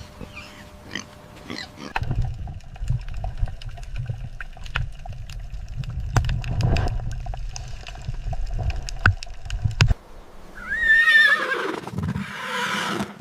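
A horse whinnying about eleven seconds in, after several seconds of low rumbling with scattered sharp clicks.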